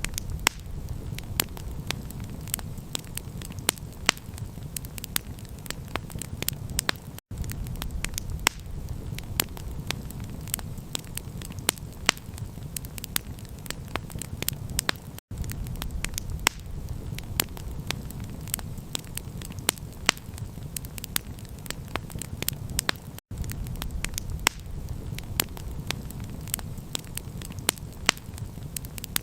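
Campfire crackling: a dense run of sharp pops and snaps over a steady low rumble, with brief dropouts about every eight seconds where the looped recording restarts.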